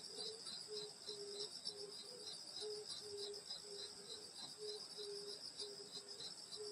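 A night chorus of crickets and other grass insects: a steady high trill with regular chirps about three or four a second. Beneath it, a low short note repeats about twice a second.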